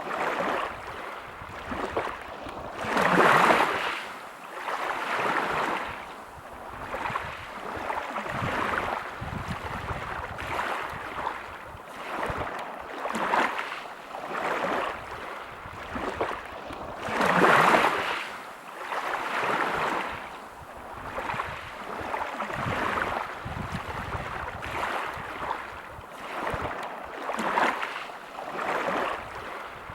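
Sea waves breaking on a pebble beach, the wash swelling and fading every few seconds. Two waves break louder than the rest, about three seconds in and again a little past halfway.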